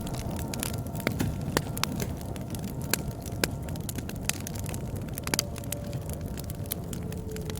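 Campfire crackling: irregular sharp pops and snaps from burning wood, several a second, over the low steady rumble of the flames.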